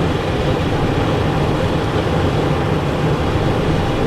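Steady rush of airflow and jet engine noise inside the cockpit of a Cessna Citation Encore business jet on final approach, with the landing gear down and landing flaps set.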